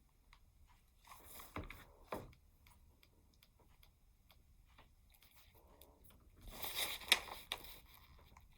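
Hands working craft materials: a short rustle with two light knocks about a second and a half in, then a louder crunching rustle around seven seconds.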